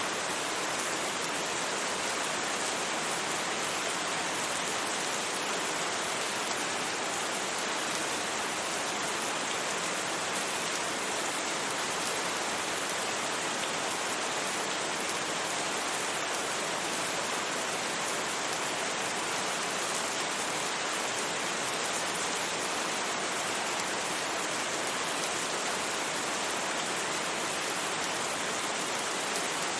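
Steady rain falling on a surface, an even hiss that does not change.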